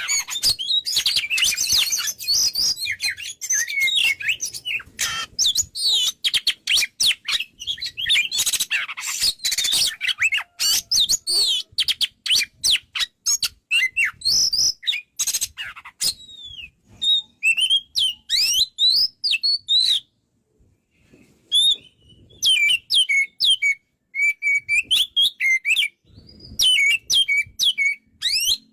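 Oriental magpie-robin singing: a fast, dense stream of varied chirps and whistles that thins after about sixteen seconds into separate whistled phrases with short pauses between them.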